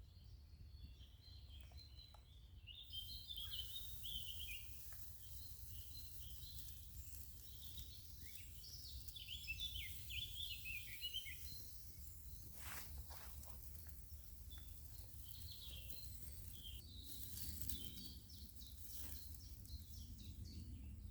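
Faint woodland birdsong: repeated short chirps and twittering from small birds, over a steady low rumble. A high hiss sets in about three seconds in, and a couple of knocks come near the middle.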